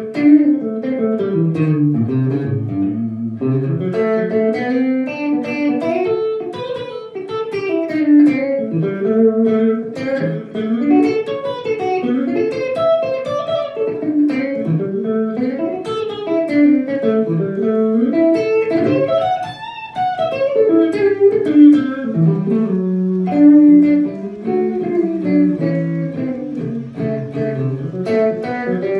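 Electric guitar playing quick single-note lines that run up and down, without a pause.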